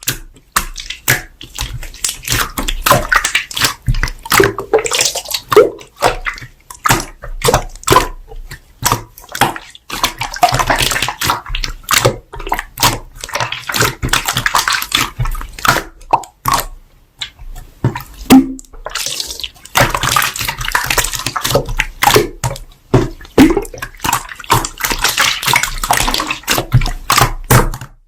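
Slime being squished, pressed and stretched by hand: dense wet clicks, pops and squelching crackles in uneven runs, with a few short pauses.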